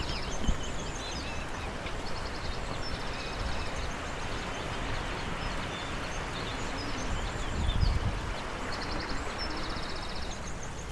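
Steady rushing of a river or stream running high after heavy rain, with a small songbird singing short trilled phrases about three times over it. A brief low rumble comes about eight seconds in.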